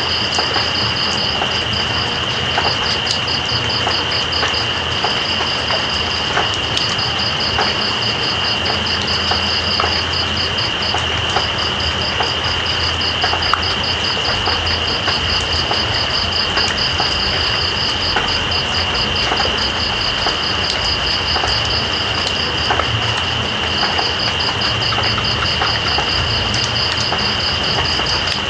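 Night insects, crickets, calling over steady rain: one holds a continuous high trill while another chirps in rapid pulses that pause now and then. Scattered drips tick through the rain, with a low steady rumble beneath.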